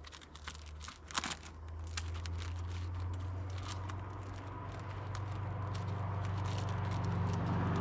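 A low motor hum that starts about a second in and grows steadily louder, over scattered crackling and snapping like twigs and brush.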